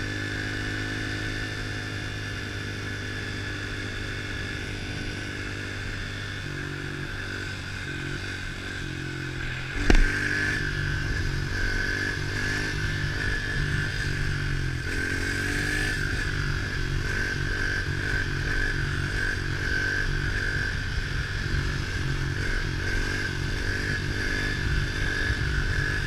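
A 110 cc pit bike's single-cylinder four-stroke engine running while ridden, at first holding a steady pitch. A sharp knock comes about ten seconds in, and after it the engine runs somewhat louder, its pitch rising and falling with the throttle.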